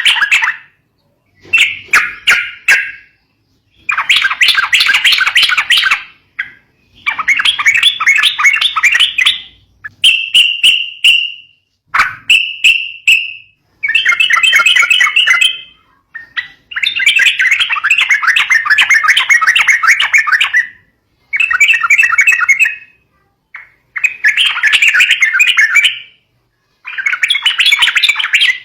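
Yellow-vented bulbul (trucukan) calling in bursts of fast, chattering notes, each burst one to four seconds long with short pauses between.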